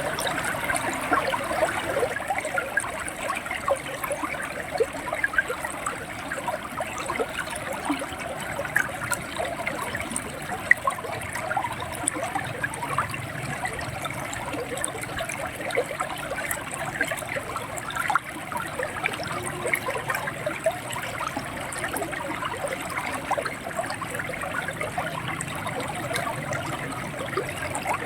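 River water running over rocks, a steady gurgle with many small splashes and trickles.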